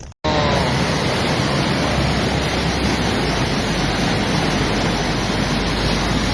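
Loud, steady rush of water, starting abruptly about a quarter second in.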